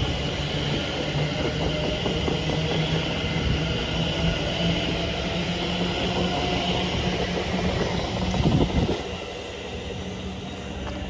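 A train passing on the main line: a steady low hum over a rapid wheel clatter, loudest just before it drops away suddenly about nine seconds in.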